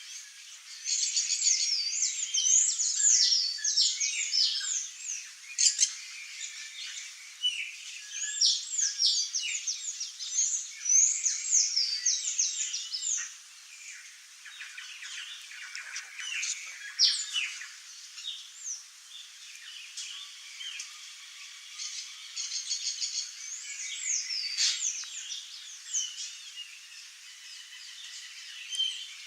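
Birds calling: a dense, overlapping chorus of high chirps, rapid trills and downward-sweeping whistles. It starts about a second in, is busiest for the first dozen seconds, then thins out, with a brief flurry again later.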